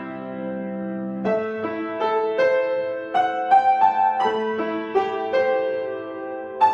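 Solo piano playing: a chord held for about a second, then a slow melody of single notes over a sustained lower note, with a fresh chord struck near the end.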